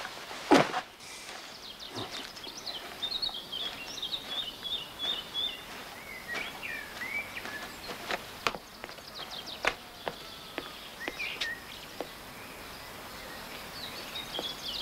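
Small birds chirping in quick repeated phrases over a steady outdoor hiss, with a few sharp taps scattered through, the loudest less than a second in.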